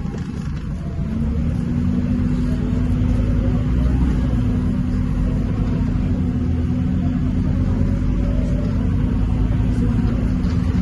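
Scania K230UB bus's five-cylinder diesel engine running with a steady low drone, which grows a little louder and takes on a held tone about a second in as the engine picks up.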